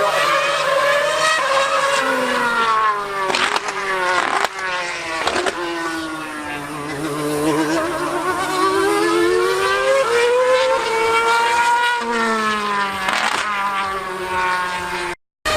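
2013 Formula 1 car's V8 engine at high revs, its pitch climbing and falling again and again as it accelerates, shifts and slows through the corners. The sound cuts out for a split second near the end.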